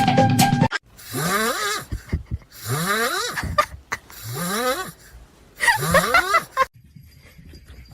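Music cuts off less than a second in, then an animal makes four breathy calls, each about a second long and rising in pitch.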